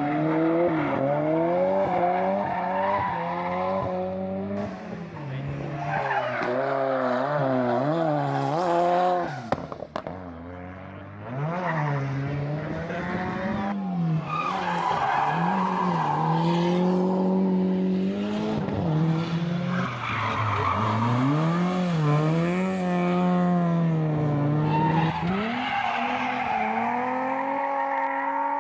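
Historic rally car engines running hard on a special stage, the pitch climbing through the gears and dropping again on each lift and shift. The sound briefly falls away with a sharp click about ten seconds in, then picks up again.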